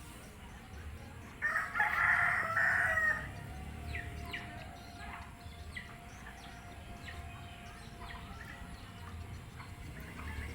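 A rooster crowing once, a loud call of about two seconds, followed by scattered short bird chirps.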